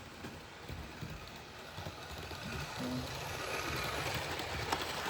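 Model train running along the track, its motor and wheels making a steady rattling whir that grows a little louder in the second half, with a single sharp click near the end.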